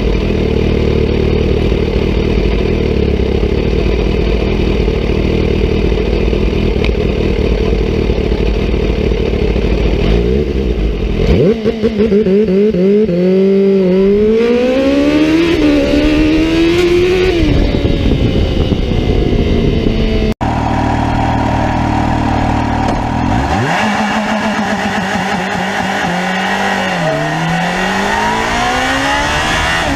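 Superbike engine running steadily at low revs, then revved up and down about 11 seconds in, the pitch climbing and dropping several times. The sound cuts abruptly to another sport motorcycle engine that runs steadily and then revs up and down in the same way.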